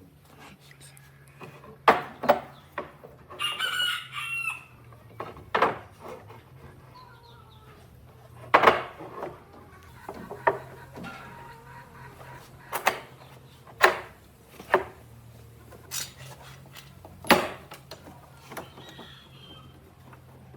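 A rooster crows once, about three and a half seconds in. Around it come about a dozen sharp, irregular knocks, louder than the crow, over a low steady hum.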